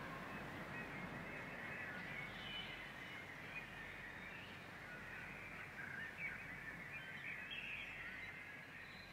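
Faint birdsong: several birds chirping and calling in short, irregular phrases over a low outdoor background, slowly fading.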